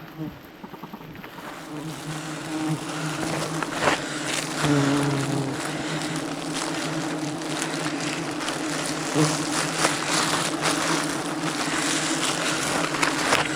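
Swarm of wild honeybees buzzing, a steady hum that swells about two seconds in, with scattered short knocks and rustles.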